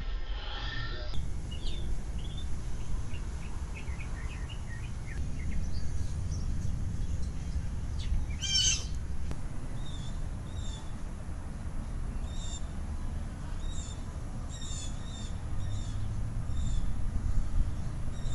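Small birds chirping in short, repeated calls, with one louder call about halfway through, over a steady low rumble of outdoor background noise.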